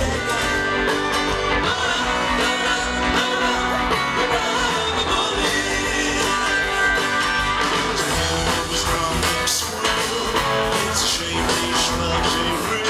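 Rock music played by a band, with guitar prominent.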